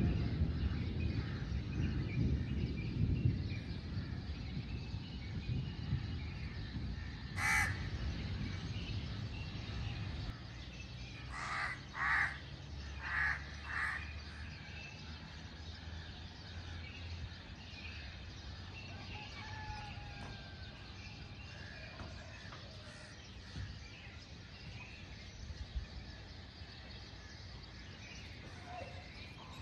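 A low rumble fades over the first few seconds. Then a bird calls, once about seven seconds in and four times in quick succession a few seconds later, over faint outdoor background noise.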